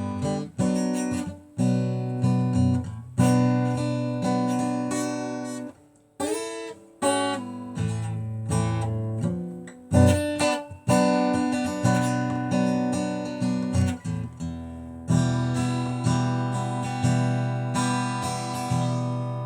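Acoustic guitar strumming chords without singing, each struck chord ringing and dying away before the next. There is a short break about six seconds in, and the last chord rings out near the end.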